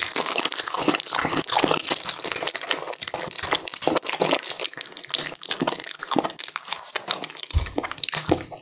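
Toasted marshmallows being chewed close to a microphone: a dense run of quick wet mouth clicks and crunches.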